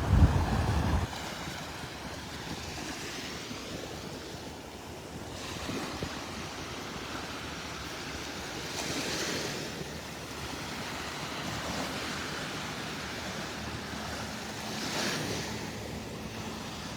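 Small Gulf of Mexico waves washing ashore, a new wave breaking and hissing up the sand about every three seconds. Wind buffets the microphone with a low rumble in the first second.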